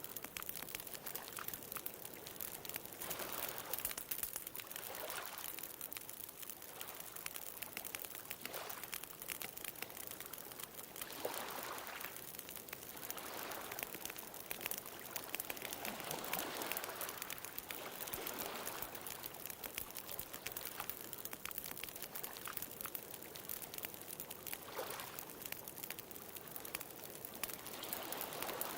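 Wood bonfire crackling with a steady stream of small pops, over ocean waves that wash in as swelling surges every few seconds.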